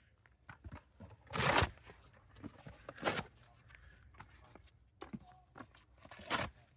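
Footsteps crunching on a trail: three louder crunches among fainter, scattered steps.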